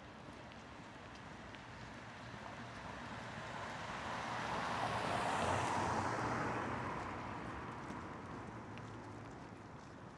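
A road vehicle driving past, its engine and tyre noise swelling to a peak about halfway through and then fading away.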